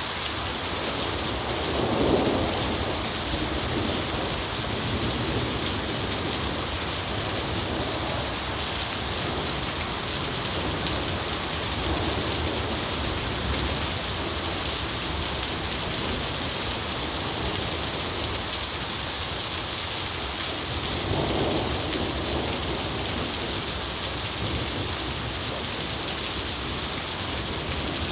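Steady rain falling, with rolling thunder rumbling about two seconds in and again about two-thirds of the way through.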